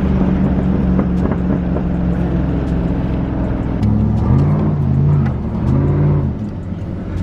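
Pickup truck engine held at high revs during a burnout, then revved up and down twice about four to six seconds in before dropping back.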